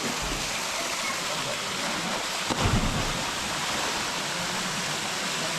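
Steady rush of falling water from a waterfall, with a short low thump a little past halfway.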